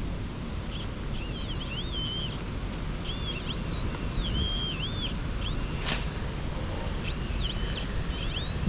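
XP Deus metal detector giving repeated high target tones, each one rising, holding and falling as the coil sweeps back and forth over a target, over steady wind noise on the microphone. A single sharp tick a little before the six-second mark.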